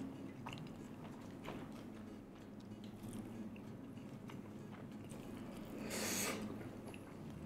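Close-miked chewing and mouth sounds of a person eating, with scattered small wet clicks, and a louder rushing sound lasting about half a second about six seconds in.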